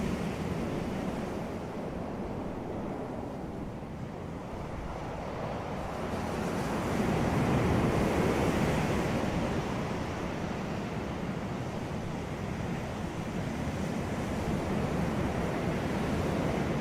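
Sea waves washing onto a beach, a steady surf rush that swells to a louder wave about halfway through and then eases back.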